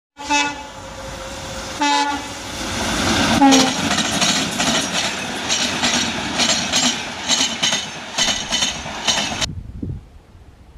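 A passing train's locomotive horn sounds three short blasts, the last dropping in pitch as it goes by, then the coaches rush past at speed with a rhythmic clickety-clack of wheels over the rail joints. The sound cuts off suddenly near the end, leaving quieter open-air ambience.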